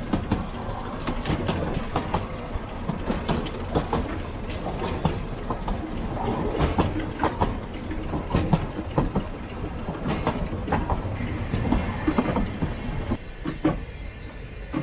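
Narrow-gauge steam train running along the track: wheels clicking irregularly over rail joints over a steady low rumble. A faint high hiss joins about eleven seconds in, and the running grows quieter with fewer clicks near the end.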